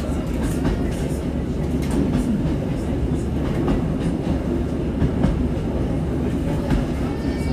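Diesel passenger train running along the track, heard on board: a steady low rumble with scattered clicks and knocks from the wheels on the rails.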